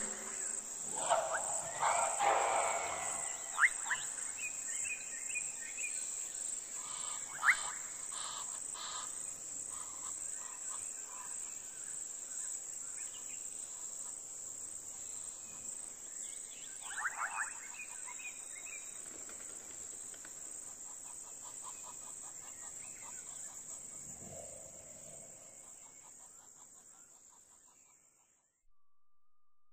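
Steady high-pitched chorus of insects, with scattered chirps and calls over it that are loudest in the first few seconds, fading out near the end.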